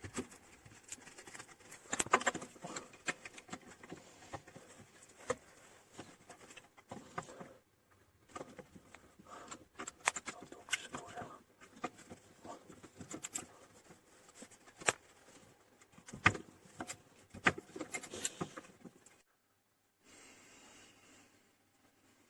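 Irregular clicks, knocks and scrapes, with a few sharper, louder clanks about two, ten, fifteen and sixteen seconds in; the sound cuts out abruptly twice.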